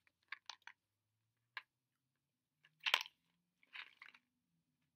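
Soft mouth clicks from chewing a jelly bean, mixed with the rustle and rattle of a small cardboard box of jelly beans being handled. The sounds come as a few short clicks, with the loudest cluster about three seconds in and another about four seconds in.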